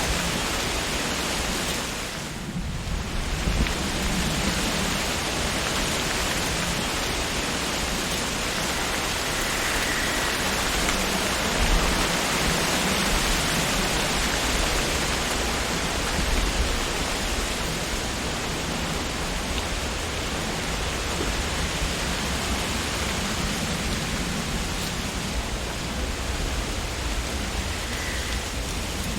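Wind blowing through tree leaves: a steady rushing rustle that eases briefly about two to three seconds in, then picks up again.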